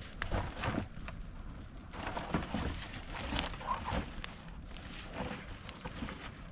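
Trash burn pile burning, with irregular crackles and sharp pops.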